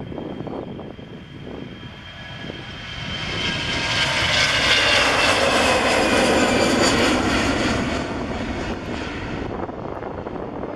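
Airbus A320 jet engines at takeoff power as the aircraft passes by: the engine noise swells to a peak about four to eight seconds in, with whining tones sliding down in pitch as it goes past, then eases off.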